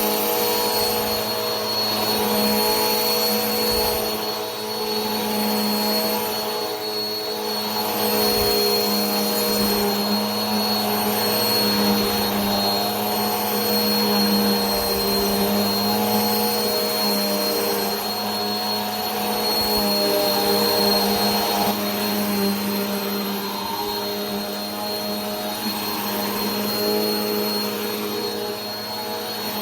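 Vacuum cleaner running continuously: a steady motor whine with a thin high whistle over a rush of air, its loudness swelling and easing slightly every few seconds.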